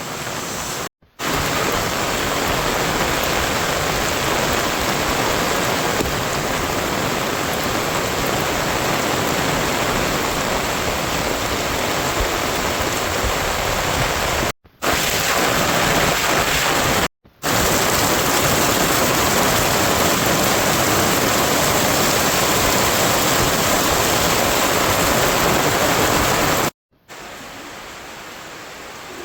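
Heavy rain falling as a steady hiss. It breaks off abruptly several times, and after the last break near the end it comes back much quieter.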